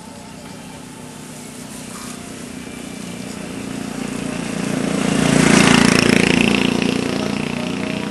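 A motor vehicle passing close by on the road: its engine grows steadily louder, is loudest about five and a half seconds in, then fades as it goes past.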